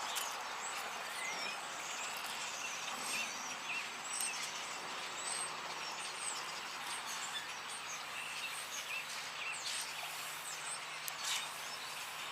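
Songbirds chirping and calling throughout in many short, quick notes, over a steady outdoor hiss, with a few sharp clicks, one louder near the end.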